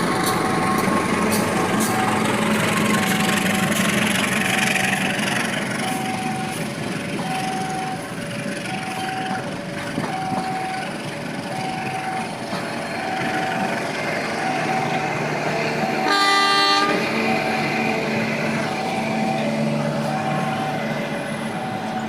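Level crossing warning signal sounding a repeating two-note alarm, high then low, about one pair a second, over the noise of a passing train. About sixteen seconds in, a train horn gives one short blast of under a second.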